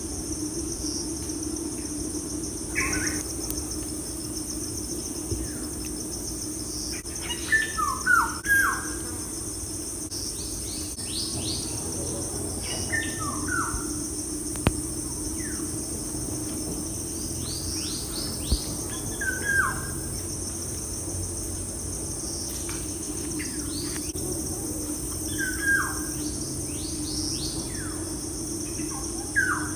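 Small birds chirping in clusters of short, quickly falling calls every few seconds, over a steady high-pitched drone and a steady low hum.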